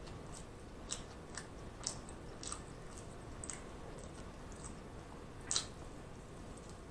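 Faint close-up chewing of a mouthful of burger: soft, wet mouth clicks and smacks about once a second, the loudest about five and a half seconds in.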